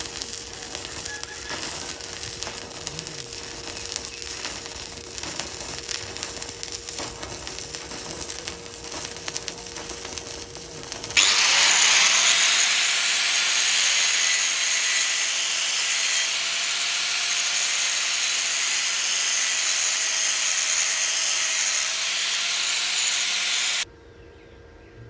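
Stick-welding arc crackling and sizzling, irregular and full of small pops. About eleven seconds in, a much louder steady hiss with a faint held tone starts suddenly, then cuts off abruptly near the end.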